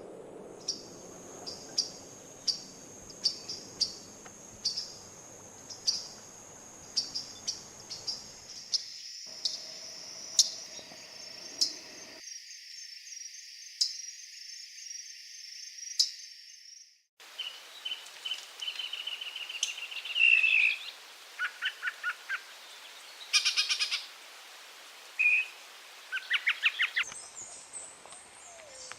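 Wild birds calling. For about the first 17 seconds, sharp high chirps repeat at irregular intervals over a steady hiss. After a brief break, a different bird gives quick trilled runs of notes and buzzy calls.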